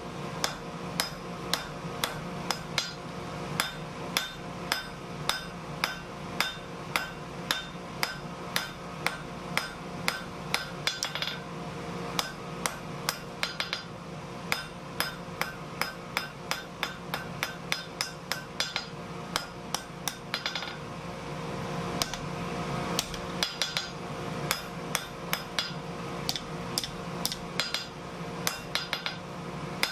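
Home-built power hammer striking hot steel in a steady run of sharp blows, about two or three a second, over a steady running hum.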